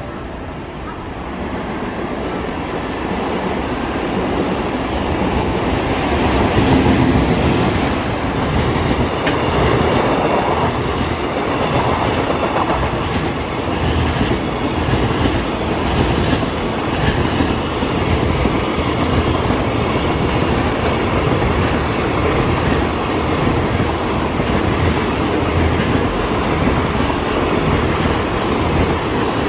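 Freight train hauled by an EF210 electric locomotive passing through without stopping: a steady rumble with the clatter of wagon wheels over rail joints. It grows louder over the first several seconds, then holds.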